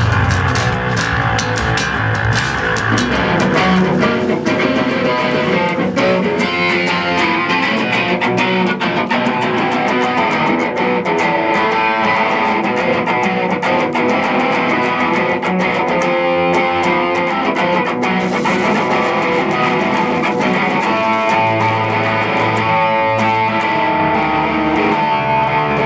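Hardcore punk band playing loud at rehearsal: electric guitar and bass guitar with sharp hits throughout.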